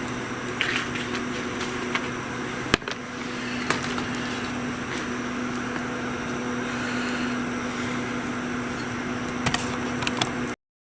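Wood fire crackling with scattered pops and one sharp snap about three seconds in, over a steady low hum. The sound cuts off just before the end.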